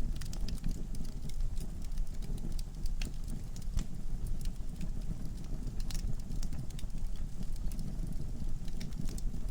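Wood fire burning in a fireplace: a steady low rumble of flame with frequent irregular crackles and pops from the burning logs.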